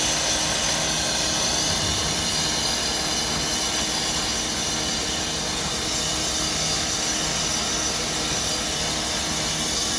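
Steady drone of fire apparatus engines running at a working fire, with an even low hum under a wide hiss.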